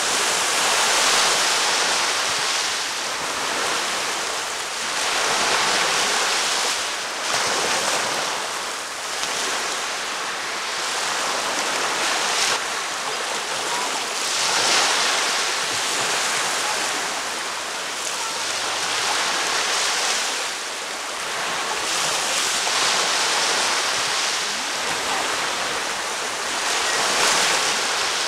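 Ocean waves breaking on a beach, a continuous surf hiss that swells and eases every few seconds, with some wind noise on the microphone.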